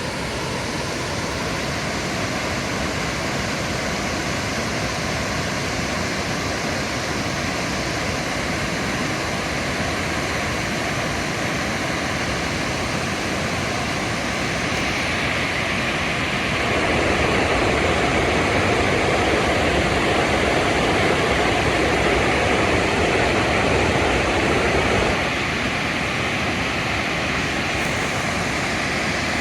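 Waterfall: a steady rush of falling water that swells louder for a stretch past the middle, then settles back.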